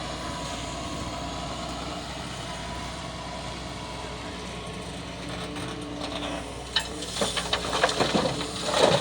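Diesel engine of a Doosan DX140 excavator running steadily, then a run of sharp knocks and clattering from about seven seconds in, loudest near the end.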